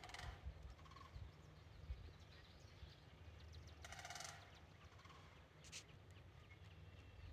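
Rattling calls from a large bird, repeated a few seconds apart.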